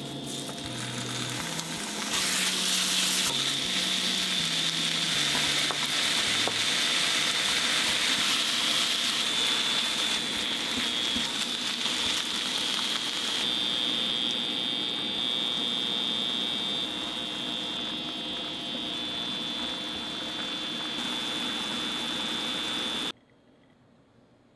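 Sliced pork and onion sizzling steadily as they stir-fry in oil in a frying pan over medium heat. The sizzle gets louder about two seconds in and cuts off abruptly near the end.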